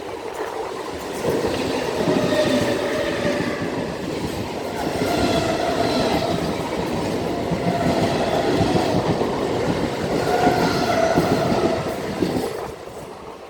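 A train passing close by: wheels running on the rails, loud from about a second in and dropping away near the end.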